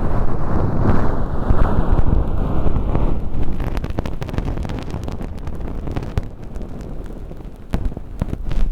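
Earpick scraping and rubbing inside a silicone ear canal close against the microphone, peeling away thin-skin fake earwax: loud, dense rustling scratching for about three seconds, then lighter crackling clicks.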